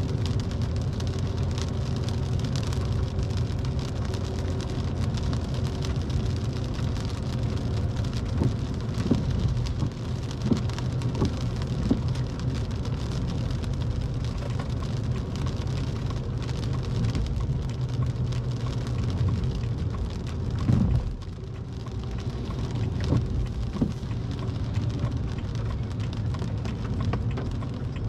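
Rain falling on a car's windshield and body, over the steady low rumble of the car and its tyres on a wet road, heard from inside the cabin. The loudness dips briefly about three quarters of the way through.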